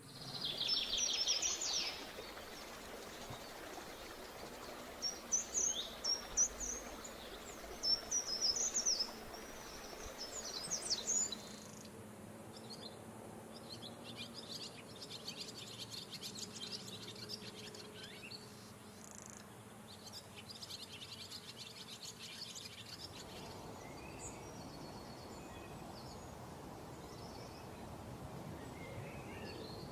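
Small birds chirping in short, separate phrases, then a faster, denser run of chirps from about twelve to twenty-three seconds in, over a steady background noise.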